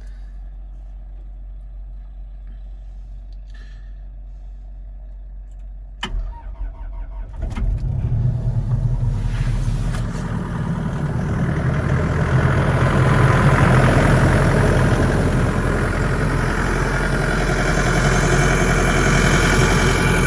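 Excavator's diesel engine being started: a click and a brief crank about six seconds in, then the engine catches and runs, growing louder as it revs up.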